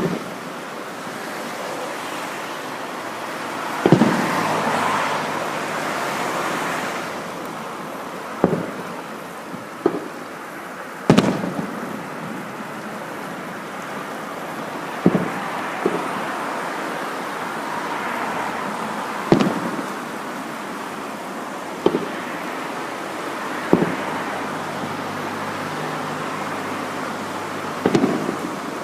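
Aerial fireworks shells bursting: about ten sharp booms at uneven gaps of one to four seconds, some followed by a short rumbling tail, over a steady rushing background noise.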